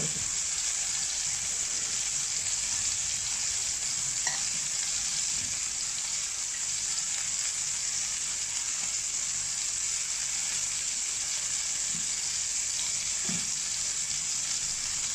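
Chicken pieces frying in hot oil in a frying pan, a steady sizzle.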